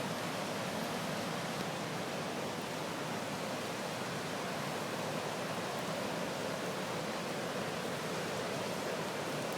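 The Deerfield River in flood, swollen by hurricane rains, rushing past in a steady, unbroken roar of water.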